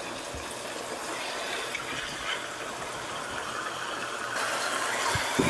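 Chicken mince frying in oil in a non-stick wok, a steady sizzle with the scrape of a silicone spatula stirring it, at the bhuna stage where the keema is being fried down nearly dry. The sizzle grows a little louder near the end, with a soft knock or two.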